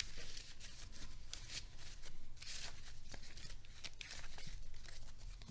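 A deck of trading cards being shuffled by hand: an irregular run of quick papery rustles and snaps.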